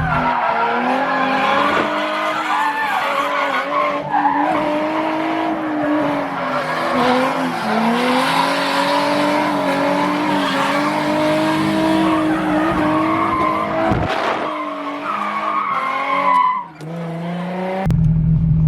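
A drift car's engine is held high in the revs, its pitch wavering up and down, while the tyres squeal and skid through a drift run. There is a brief sharp crack about 14 seconds in. Near the end the revs drop away to a lower rumble.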